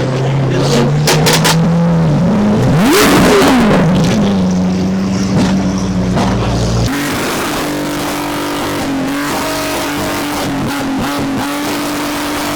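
Performance car engine running loud through its exhaust, blipped once in a quick rev that rises and falls about three seconds in. About seven seconds in the sound cuts abruptly to a different steady engine note.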